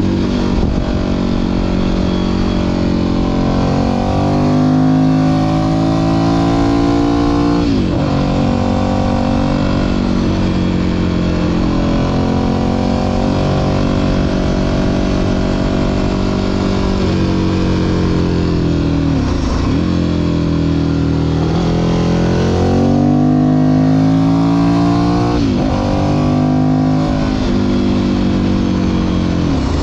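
Ducati Monster 1100 EVO's air-cooled L-twin engine pulling under way, its revs rising and falling, with about four quick gear changes where the pitch drops sharply and then climbs again.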